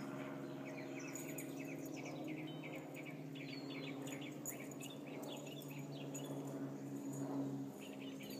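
Songbirds chirping in quick, repeated runs of short notes, over a steady low hum.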